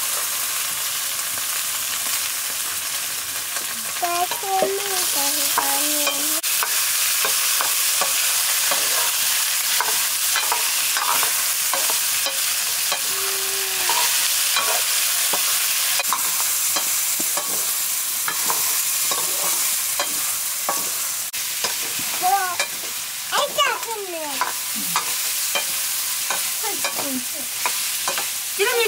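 Food sizzling steadily in hot oil in a black iron wok over a wood fire, while a metal ladle stirs it and scrapes the pan in frequent clicks.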